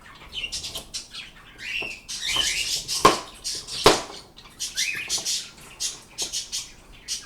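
Pet birds calling with short chirps that fall in pitch, repeated every second or so, over rustling. Two sharp knocks about three and four seconds in.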